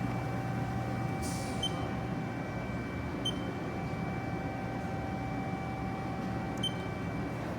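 Haas DS-30SSY CNC lathe running: a steady mechanical hum with steady whining tones, one of which stops near the end. Three short high chirps and a brief hiss puff come through over it.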